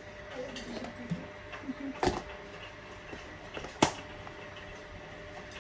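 Two sharp knocks, nearly two seconds apart, over a faint room background.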